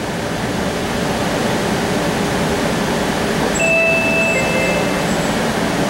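Steady running noise inside a streetcar in motion, with a few brief high ringing tones about three and a half seconds in.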